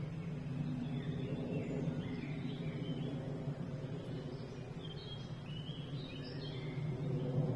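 Small birds twittering in short high chirps over a steady low rumble.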